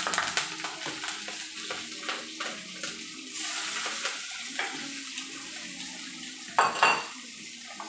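Ginger-garlic paste and whole spices frying in hot oil in a cooking pot, a steady sizzle with a spoon scraping and stirring against the metal. Near the end come two louder metal clanks close together.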